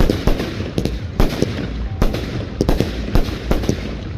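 Fireworks going off in a rapid barrage: sharp bangs of bursting shells, about three or four a second, over a steady low rumble.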